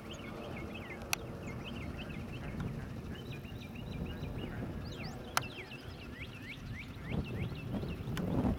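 Small birds chirping in quick, repeated short calls over a steady low rumble that grows louder near the end, with three sharp clicks.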